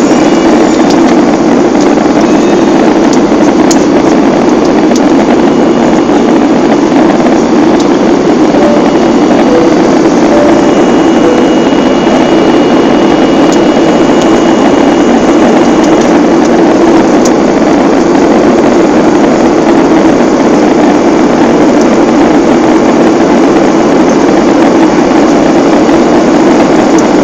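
Steady, loud drone of an aeroplane's engines and airflow heard inside the passenger cabin.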